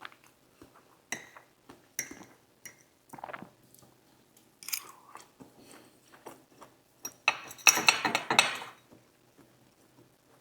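Close-miked chewing and mouth sounds of a person eating, with short smacks and clicks, and a louder, noisier stretch of about a second and a half around seven seconds in.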